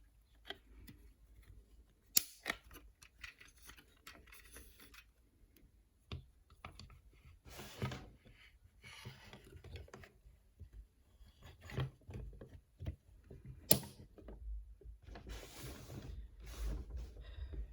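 Plastic action figure being handled and transformed: scattered sharp clicks of plastic parts snapping and ratcheting into place, the loudest about two seconds in and near fourteen seconds, with short rustles between.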